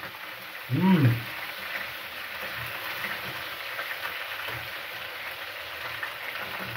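Fish, chicken and beef frying in oil in a pan: a steady sizzle while a metal spoon turns the pieces. A short vocal sound from the cook about a second in.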